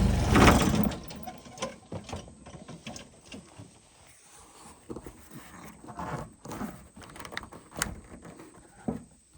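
Tractor engine shutting off within the first second, then scattered light clicks and knocks.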